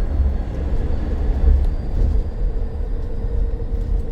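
Cabin noise of a battery-electric double-decker bus on the move: a steady low rumble of the running bus, with a faint steady hum above it.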